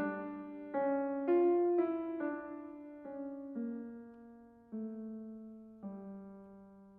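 Slow solo piano music, one note after another, with the notes coming further apart and growing quieter as the phrase winds down.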